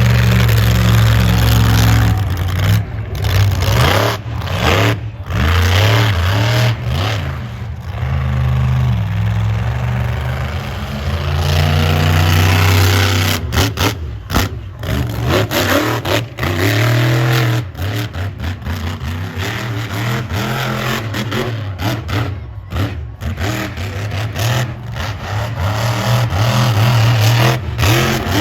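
Monster truck engine revving hard over and over, its pitch climbing and dropping with the throttle, broken by many brief cut-outs.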